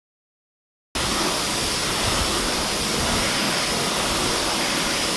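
Dead silence for about a second, then a steady spray of water cuts in suddenly: a hose jet rinsing soap off a car's bodywork.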